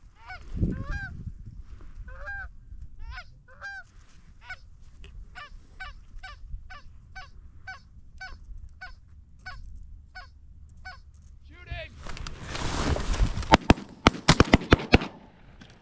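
Goose honks, a long run of short rising and falling honks repeating about two to three times a second. Near the end a loud rustle with a quick cluster of sharp clicks or knocks cuts in.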